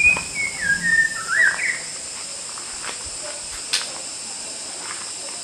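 White-rumped shama singing a short, warbling phrase of varied whistled notes in the first two seconds, over a steady, high-pitched insect drone. A single sharp click sounds a little before four seconds in.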